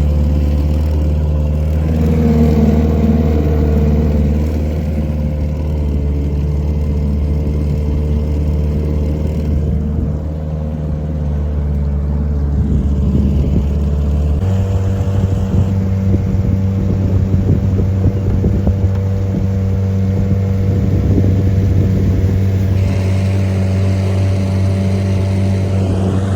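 Boat motor running steadily under way, a constant low drone that shifts to a slightly different pitch about halfway through.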